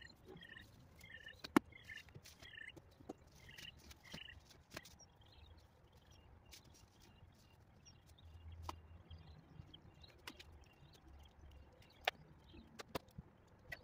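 Birds chirping in short repeated calls through the first few seconds, over scattered light knocks and taps from someone working on the camper roof, with a sharper knock about a second and a half in.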